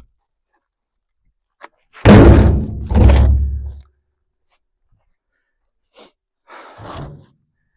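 Heavy thuds of logs being dropped while loading firewood: two loud thunks about two and three seconds in, then a lighter one near the end.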